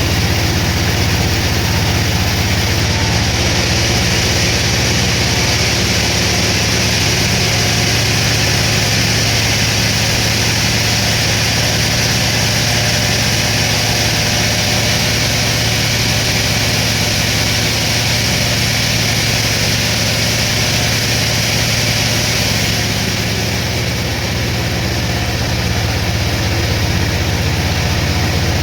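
Sawmill machinery running steadily: a loud engine-like drone with a low hum and a constant hiss, easing slightly for a moment after about 23 seconds.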